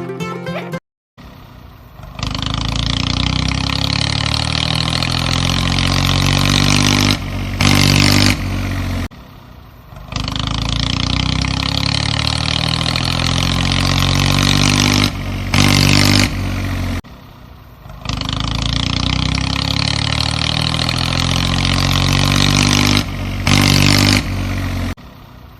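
Engine running in a cycle that repeats about every eight seconds: a short quiet idle, a long steady run, a brief drop and a short louder rev, three times over.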